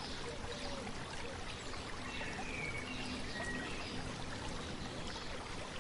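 A shallow stream babbling and trickling steadily, with a few short bird chirps in the middle.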